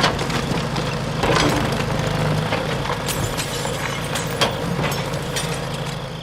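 A small motor running steadily with a low hum, with irregular clattering and knocks over it.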